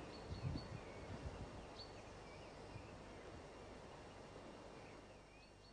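Quiet woodland ambience: small birds chirping faintly a few times, short high calls, over a steady low hiss, with a few soft low bumps in the first second or so.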